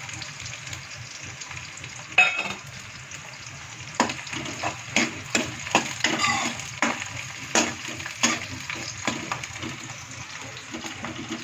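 Onions with freshly added garlic, ginger and coriander sizzling in hot oil in a pan, stirred with a spoon: a steady sizzle, with the spoon scraping and knocking against the pan, the knocks coming thick from about four seconds in.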